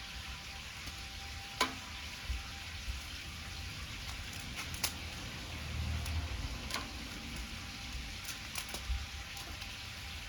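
Cooking over a wood fire: a steady sizzling hiss with a few sharp pops.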